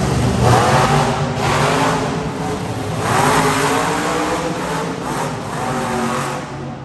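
Bigfoot monster truck's engine revving hard in an arena, climbing in pitch twice, about half a second in and again about three seconds in.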